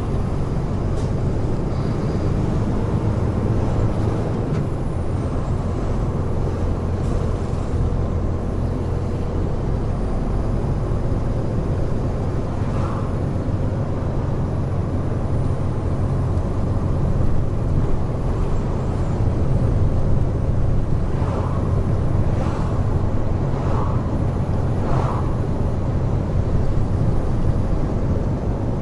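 Heavy truck's diesel engine and tyre noise while cruising on an expressway, heard from the cab as a steady low rumble. A few short, faint higher sounds come through in the second half.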